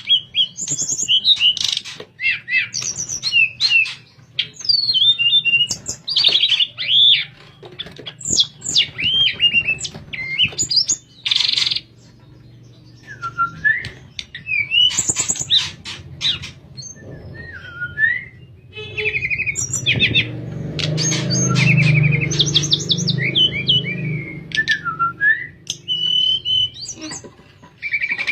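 Tledekan songbird singing a varied, flute-like whistled song of quick phrases, sliding notes and short trills, with brief pauses between phrases.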